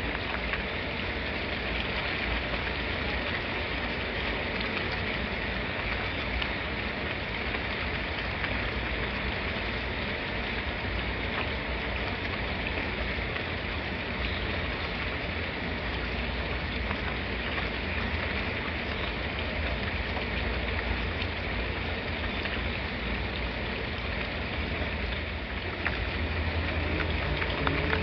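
Steady rain falling, an even hiss of drops with a low rumble underneath that grows slightly louder near the end.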